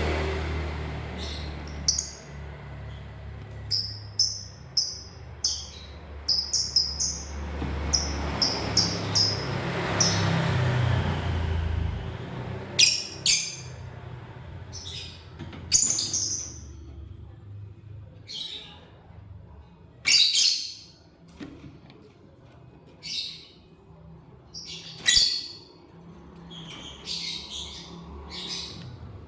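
Lovebirds chirping and squawking in short, shrill calls. For about the first twelve seconds quick strings of high chirps sit over a low rumble, which then fades out; after that come louder single calls every second or two.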